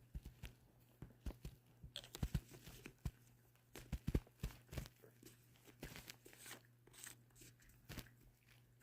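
Cat chewing and biting dried catnip: quiet, irregular crunching and crackling clicks.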